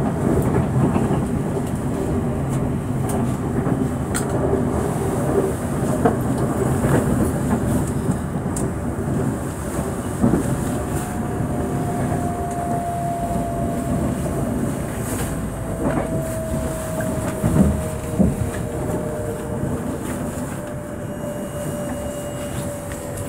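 Inside a moving commuter train carriage: the steady rumble of the train running along the rails, with a few sharp clicks scattered through it. From about halfway a faint whine slowly falls in pitch.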